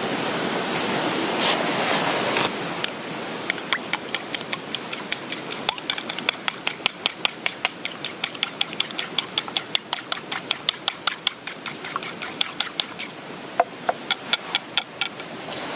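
Rapid, evenly spaced tapping of a cooking utensil at about five strokes a second for some ten seconds, starting a few seconds in and thinning out near the end, over a steady rushing background.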